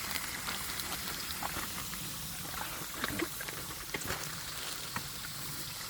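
Pigs snuffling and making small grunting sounds over a steady hiss, with scattered light clicks and one brief squeaky sound about three seconds in.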